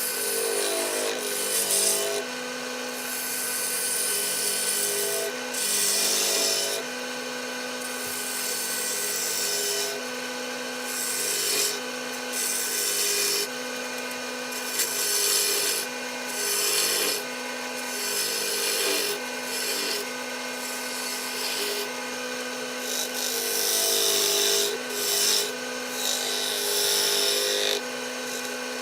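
Wood lathe running with a steady motor hum while a tool works the spinning walnut blank in repeated passes, a scraping hiss that swells and drops every second or few.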